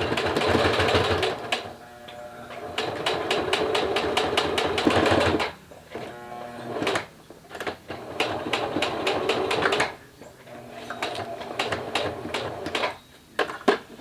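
Sewing machine stitching through vinyl enclosure fabric in four runs of about one to three seconds each, a rapid even clatter of stitches over the motor's hum, stopping and starting between runs.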